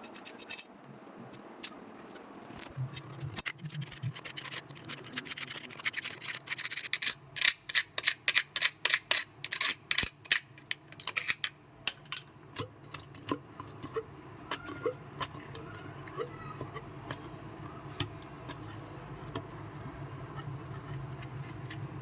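Metal plumbing tools and fittings being handled: a run of quick sharp clinks and knocks, about two a second, for several seconds in the middle, with scattered clicks before and after over a low steady hum.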